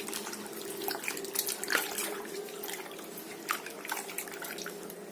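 Water splashing and dripping as thin potato slices are rinsed by hand in water, washing the slippery surface starch off them, with small irregular splashes throughout.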